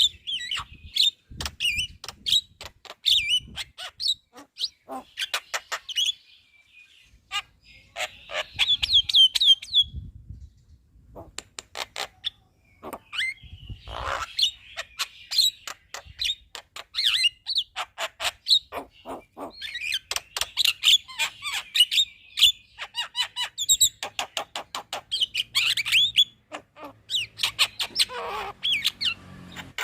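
Javan myna (jalak kebo) singing a loud, chattering song: bursts of warbling, squeaky notes strung together with sharp clicks, with short pauses now and then.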